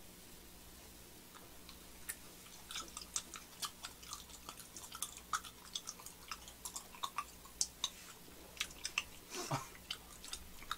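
Close-up chewing of soft, sticky manggae-tteok rice cakes: many small wet mouth clicks, starting about two seconds in and coming thick and fast.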